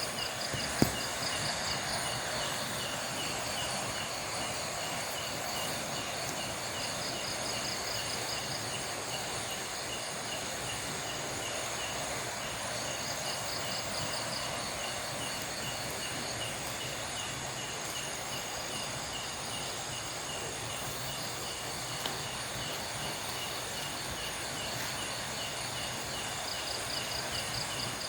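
Night forest ambience dominated by insects chirring steadily at several high pitches, with a short rapid trill repeating every five seconds or so. A single sharp knock sounds about a second in.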